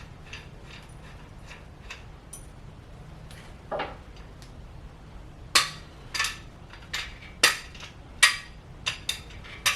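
Hammer blows on a cam bearing installation tool, driving a cam bearing into its bore in a Ford 292 Y-block engine block: a few light clicks of setting it up, then about eight sharp metallic whacks in the second half, roughly one to two a second.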